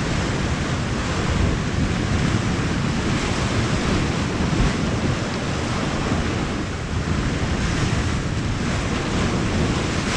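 Steady wind buffeting the microphone over the wash of sea surf on the rocks.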